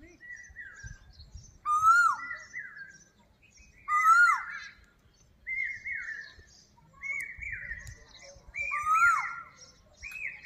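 Birds calling: short, harsh, down-slurred calls repeated about every one and a half seconds. A lower note that rises then drops overlaps a higher falling note.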